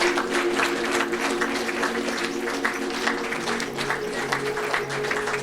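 Audience applauding, many hands clapping, over ambient background music with long held notes; a lower note joins the music about three seconds in.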